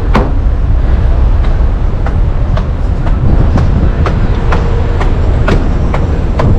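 Wind buffeting the microphone on an open ship deck, a heavy constant low rumble, with footsteps clicking about twice a second as someone walks on.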